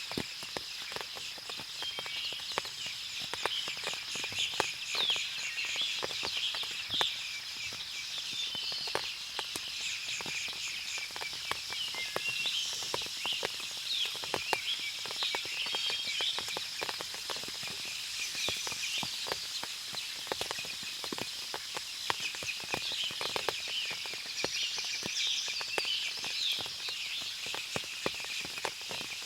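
Forest after rain: many birds chirping and calling over a steady high-pitched insect drone, with frequent small drips and ticks of water falling from the trees.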